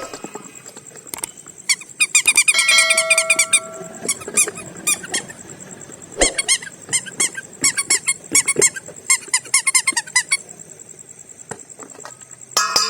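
Runs of short, rapid squeaks from plastic bags of coloured water being squeezed and rubbed in the hands.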